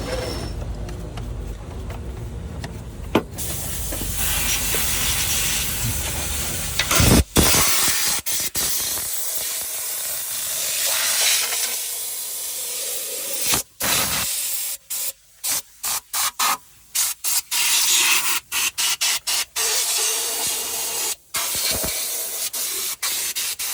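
A cleaning spray gun hissing under pressure, with a low rumble underneath at first. In the second half it is triggered on and off in many short bursts.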